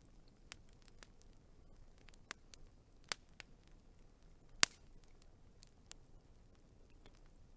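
Wood fire crackling: scattered sharp pops and snaps over a faint low hiss, with the loudest snap about four and a half seconds in.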